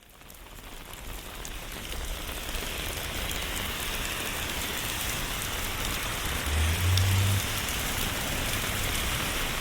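Steady rain falling, a dense even hiss that fades in over the first couple of seconds. A brief low rumble comes about seven seconds in.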